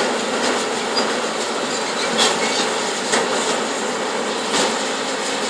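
Demolition of a steel building by heavy machinery: a steady grinding, metallic din with a few sharp metal knocks and squeals.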